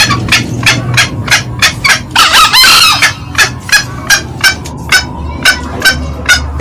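Green junglefowl calling: a fast, even run of short clucking notes, about three a second, broken by one longer, harsher call about two seconds in.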